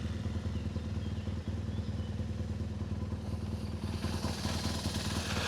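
BMW F 850 GS Adventure motorcycle's parallel-twin engine idling steadily at a constant pitch, with some hiss coming up near the end.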